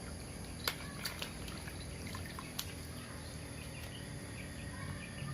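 Water trickling and splashing as toy cars are washed, with a few sharp clicks and knocks.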